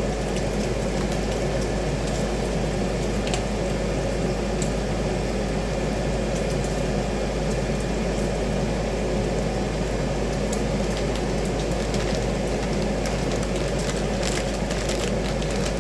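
Bacon sizzling steadily in a frying pan, an even, unbroken noise, with a few faint clicks scattered through it.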